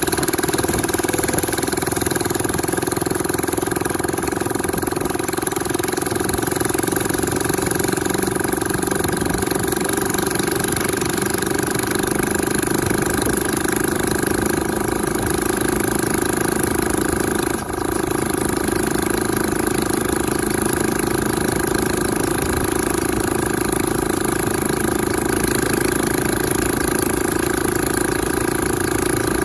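Motorcycle engine powering a homemade mini jeep, running at a steady speed with a brief dip about two-thirds of the way through.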